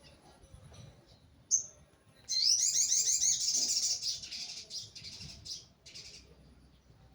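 A songbird chirping: one sharp high note, then a loud, fast run of repeated chirps that tails off into scattered shorter calls. This is a lure song for getting an untrained sogon bird to start singing.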